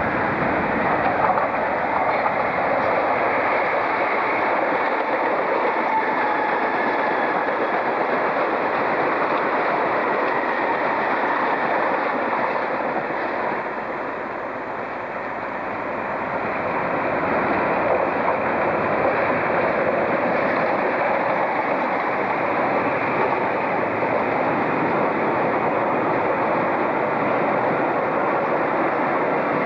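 Trains running on rails: a steady rolling noise of wheels on track. The noise dips briefly about halfway through, then carries on as a train of coaches passes close by.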